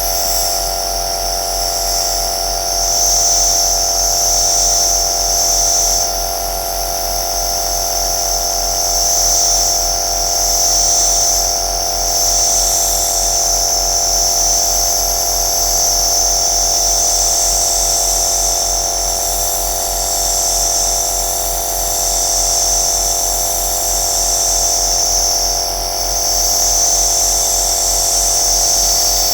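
Compressor nebulizer running steadily: the electric compressor's steady hum with a high hiss of air and mist, gently rising and falling in loudness every few seconds.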